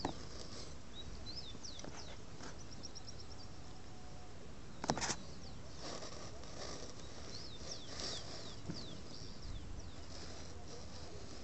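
Small birds chirping: many short, high chirps that sweep downward, with a quick trill of repeated notes about two and a half seconds in. A brief clatter of clicks comes about five seconds in.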